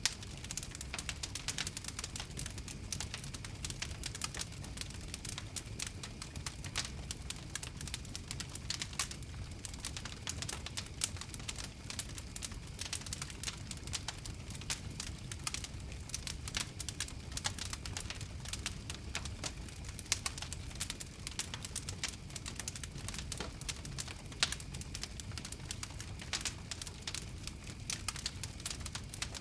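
Wood fire crackling: a dense, steady run of small sharp pops and snaps, with now and then a louder pop, over a low rumble of the flames.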